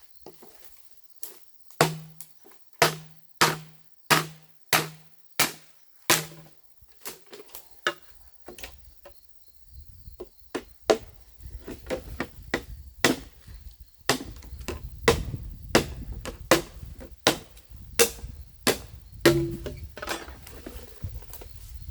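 Repeated sharp blows of a hand tool. About seven evenly spaced strikes, each with a dull thud, are followed by more irregular knocks over a low rumble.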